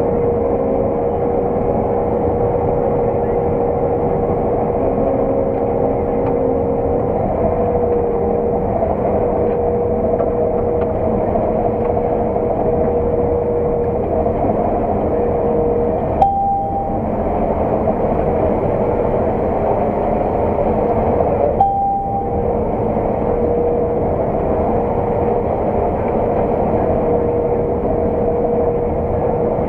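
Farm machinery engine running steadily, a continuous drone with a steady whine through it, heard from inside the cab. Twice, about two-thirds of the way through, the noise briefly dips.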